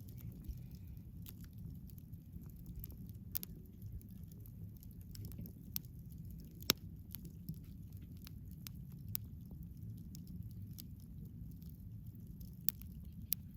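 Wood campfire crackling, with frequent sharp, irregular pops over a low steady rumble; the loudest pops come about seven seconds in and twice near the end.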